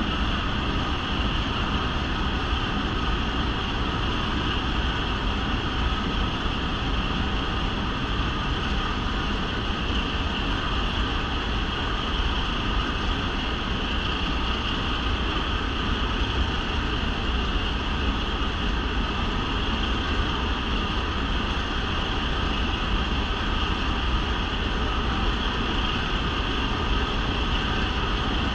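Train climbing upgrade through a rail tunnel, heard from an open-air passenger car: a steady, loud rumble of the working locomotive and the wheels on the rails, closed in by the tunnel walls.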